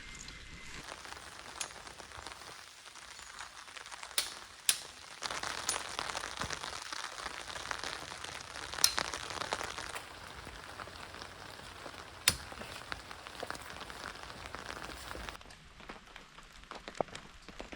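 Steady rain hiss with a few sharp clicks or knocks, the loudest about four and a half seconds in, twice in quick succession, then near the middle and again about twelve seconds in.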